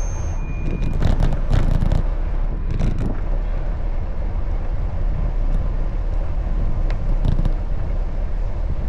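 Steady wind rumble on the microphone and passing road traffic, heard while cycling in city traffic, with a few short clattering knocks in the first three seconds.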